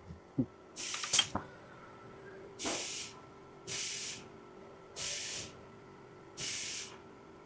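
Short bursts of compressed-air hiss from industrial robot equipment, five of them about a second and a half apart, each lasting about half a second. A few clicks come near the start, over a faint steady hum.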